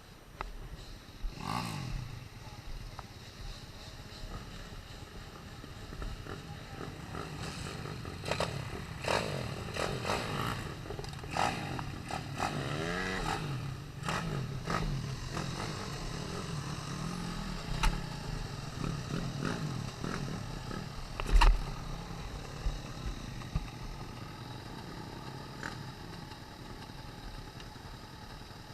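Pit bike engine being ridden on a motocross track, its revs rising and falling, with clattering knocks from the bike and a sharp thump about 21 seconds in.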